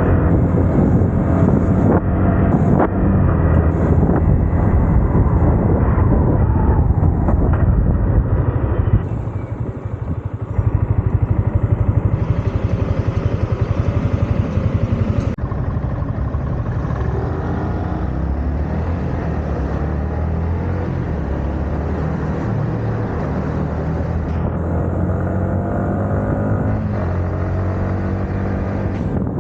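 Yamaha MT-15's 155 cc single-cylinder engine running under way, its exhaust note rising and falling with the throttle over wind noise. About nine seconds in it drops off briefly, then pulls again.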